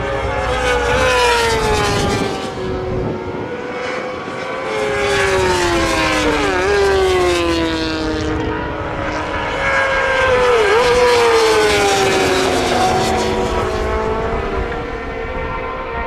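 Road-racing motorcycles passing at full speed one after another. Each engine note falls in pitch as the bike goes by, with brief dips at gear changes.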